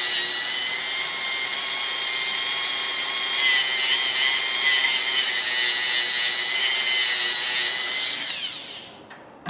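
Dremel rotary tool running at high speed with a steady high-pitched whine while cleaning the top of a nut; near the end it is switched off and the whine falls in pitch as it spins down.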